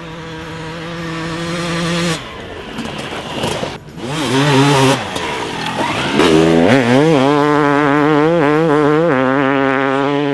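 Yamaha YZ250X two-stroke dirt bike engine with a Pro Circuit pipe and silencer, being ridden. A steady note grows louder for about two seconds and cuts off abruptly, then comes a stretch of rushing noise. From a little past halfway the engine revs up and down quickly, its pitch wavering, until it stops near the end.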